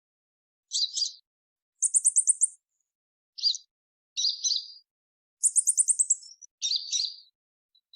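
Purple-throated sunbird calling: short, sharp, high chirp clusters alternating with two fast, very high trills of about eight notes each, with silent gaps between the phrases.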